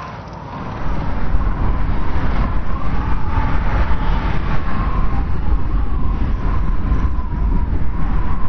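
Strong wind blowing in a snowstorm: a steady low rumble with a thin whistling howl held above it, rising in strength about a second in.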